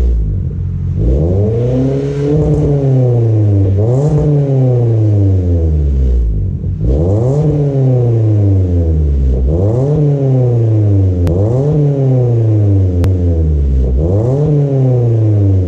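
Toyota Corolla's four-cylinder engine heard through a custom 2 1/2 inch exhaust with split rear Magnaflow mufflers, revved up and let fall back about six times in a row. The sound cuts off abruptly at the end.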